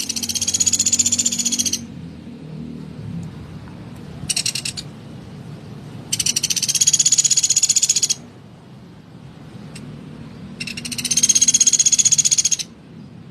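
Pelatuk beras, a small woodpecker, giving rapid buzzy high-pitched trills: three of about two seconds each and a short one between, over a faint low hum.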